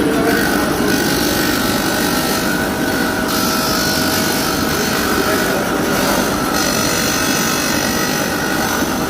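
A workshop power tool running steadily at knife-making work, with a hiss in the upper range that grows and fades several times, as if a blade is pressed to it and eased off.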